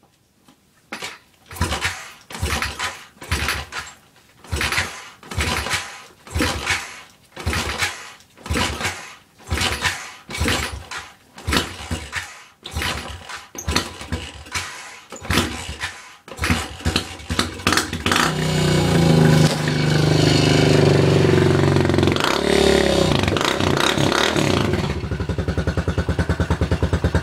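A cold 110cc Chinese pit bike's single-cylinder engine being kick-started: about fifteen kicks, each turning it over once, before it catches. It then runs unevenly with some revving and settles to a steady idle near the end.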